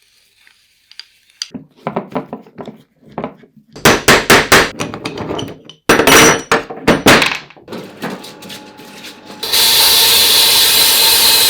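Metal parts of a bench vice being knocked apart with tools: a run of irregular clanks and hammer strikes, loudest in two clusters in the middle. About nine and a half seconds in, a loud steady hiss starts.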